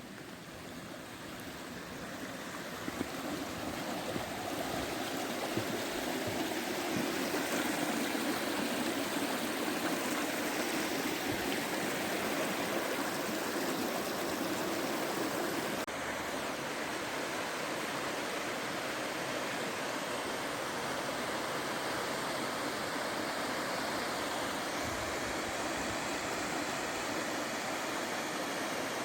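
Steady rush of a stream of running water, fading in over the first few seconds and changing suddenly about 16 seconds in.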